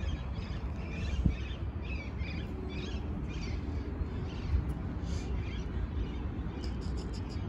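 Birds calling repeatedly in short chirps over a steady low rumble, with a single brief knock about a second in and a few quick clicks near the end.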